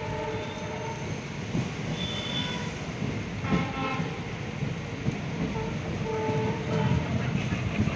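Train running, a steady rumble with brief higher tones over it several times.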